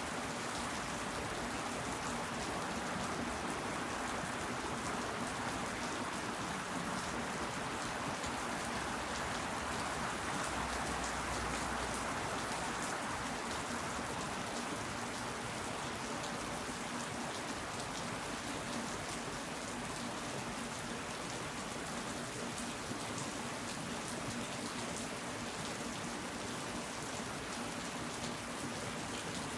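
Steady rain falling, a continuous hiss with individual drops pattering through it.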